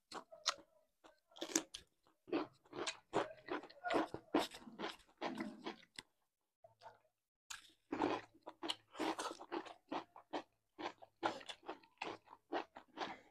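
Close-miked eating sounds of two people chewing and crunching food, a quick string of short wet smacks and crunches, with a pause of about a second and a half near the middle.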